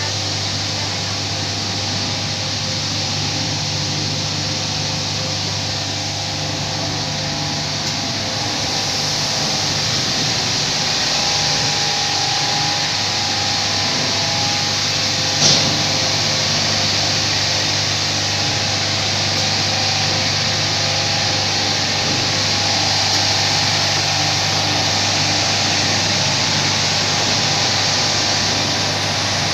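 Carpet-washing machinery running steadily, a motor hum under a hiss, with one short click about halfway through.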